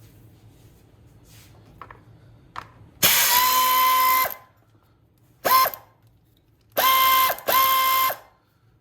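Cordless power tool's motor running in four bursts: one of about a second, a short one, then two close together. Each spins up and winds down as it drives out bolts on the engine's cooling shroud.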